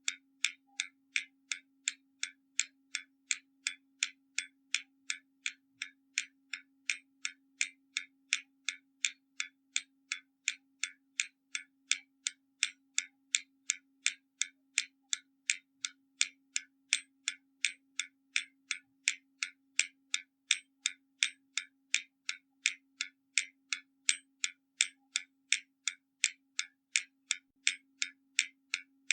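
Hermle mechanical skeleton clock ticking steadily, its escapement giving sharp, even ticks at about two a second.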